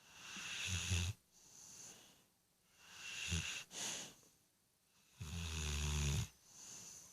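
Pit bull puppy snoring in her sleep: three snoring breaths about two and a half seconds apart, the last the loudest and longest, with softer breathing between.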